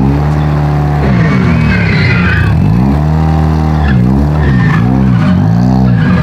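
Demolition drag race car engines revving, the pitch sweeping up and down again and again between stretches of steady running, quickest near the end.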